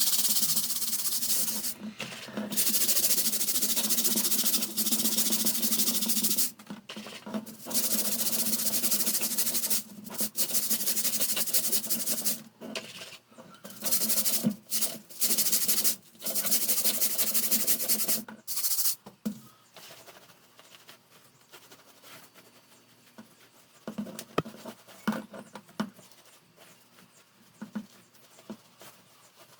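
Brisk rubbing and scrubbing on fan parts during cleaning, in stretches of a few seconds with short pauses. After about 18 s in it gives way to quieter light clicks and handling.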